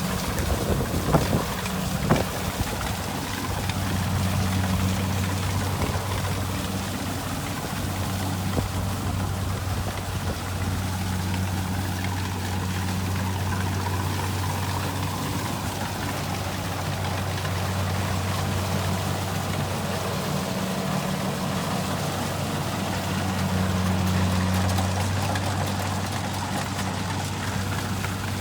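Kubota rice combine harvester running steadily: an even low engine drone under a hiss of machine noise, with a few sharp knocks in the first two seconds.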